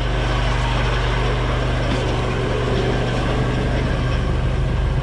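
1969 Volvo 142's four-cylinder engine idling steadily, its exhaust leak freshly patched. Much of the noise seems to come from the water pump and fan belt drive.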